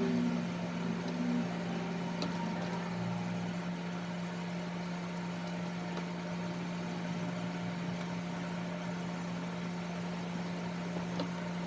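Steady electric motor hum with an even hiss over it, and a few faint clicks.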